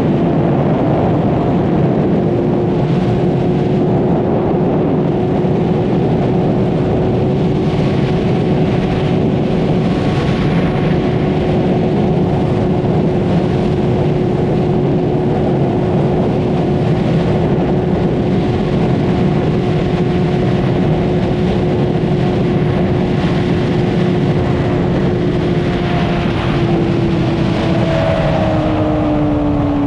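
Honda CBR600RR's inline-four engine running at a steady high pitch at speed, under a constant rush of wind. Near the end the engine note falls.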